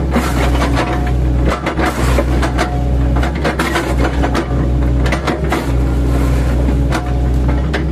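An 8-ton-class excavator's diesel engine running steadily under load, with irregular knocks and cracks as its bucket, fitted with chipping blades, chops into oil palm trunks.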